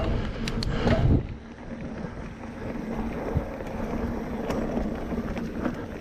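Mountain bike rolling over a sandy dirt trail, with wind buffeting the microphone. In about the first second there is a louder burst of clicks and rattles, then steadier, quieter rolling noise.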